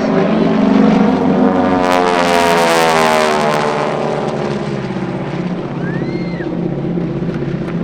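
Propeller-driven aircraft engine passing low by. It swells to its loudest about two to three seconds in, then drops in pitch as it goes away, leaving a steady drone.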